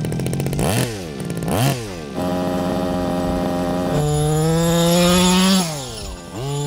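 Small 28cc two-stroke gas engine of a 1/5-scale RC monster truck, blipped twice, then held at steady high revs. The revs step up about four seconds in, drop briefly near the end and pick up again.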